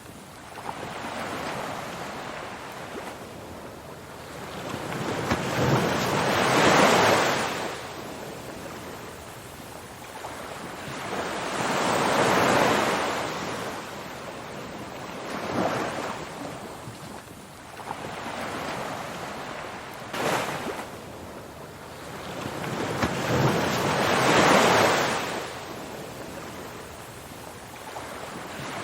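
Ocean surf: waves breaking and washing up in slow swells of rushing noise, one about every five or six seconds, each rising to a peak and then falling back.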